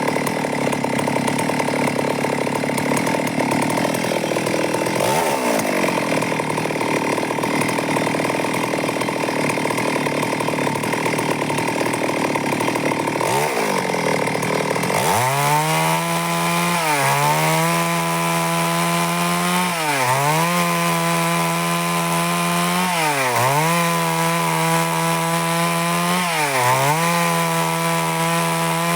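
Stihl MS 382 two-stroke chainsaw cutting through wood under load. For the first half the engine note is buried under the noise of the chain in the cut. From about halfway the engine runs clear and steady, its pitch dipping briefly about every three seconds.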